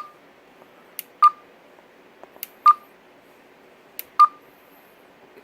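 Stryker SR-655HP CB radio's front-panel buttons being pressed four times, each press a sharp click followed by a short, high confirmation beep, about one and a half seconds apart, as the display colors are cycled.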